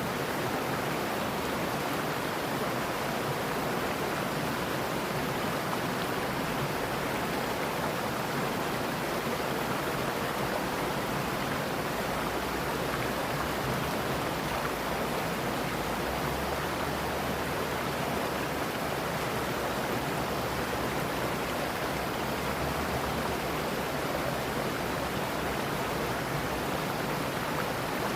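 A mountain stream's water running steadily, a continuous rushing noise with no change.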